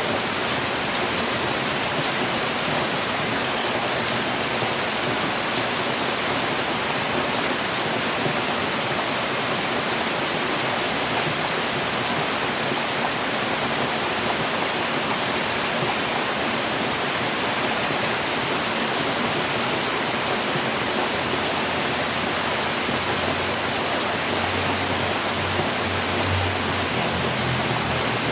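Steady rain falling on a house roof, an even hiss with faint scattered drop ticks.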